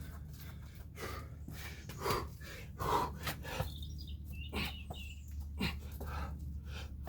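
A man breathing hard in short, forceful breaths about once a second while doing burpees and jump squats. A bird chirps briefly a little past the middle, over a steady low hum.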